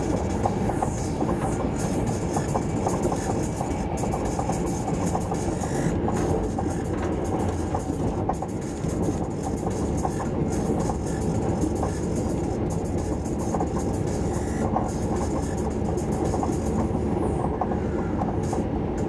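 Steady running noise of an SJ 3000 (X55) electric multiple unit at speed, heard inside the passenger car: the wheels and running gear on the track, dipping briefly about halfway.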